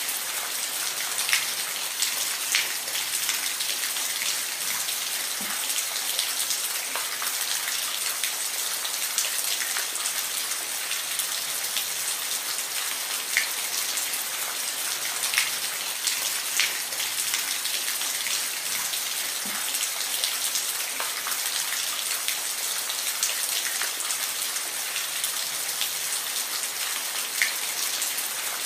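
Steady rain falling, an even hiss with individual drops pattering sharply on a surface now and then.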